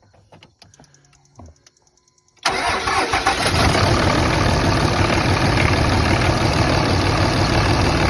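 A few faint ticks, then about two and a half seconds in a 2005 Dodge's 5.9 Cummins inline-six turbo diesel starts abruptly and settles into a loud, steady idle. The engine is cold and has a rough idle from a suspected cylinder misfire.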